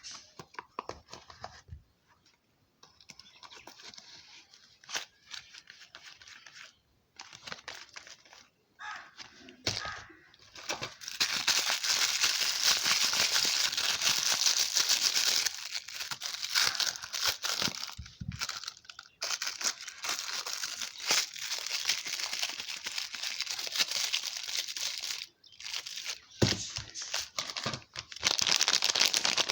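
Soap wrapping being torn open and crinkled by hand. The first seconds hold quieter handling with scattered clicks, and from about ten seconds in there is dense, continuous crinkling, broken twice by short pauses.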